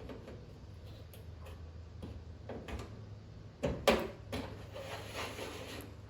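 Clicks and knocks of tools and small metal parts being handled, with two sharp knocks a little past halfway, followed by a short scrape, over a steady low hum.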